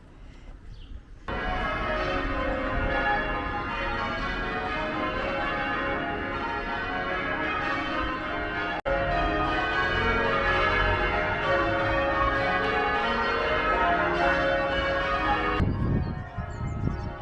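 Church bells change ringing: many bells struck in turn in a dense, steady peal. It starts suddenly about a second in and cuts off abruptly near the end.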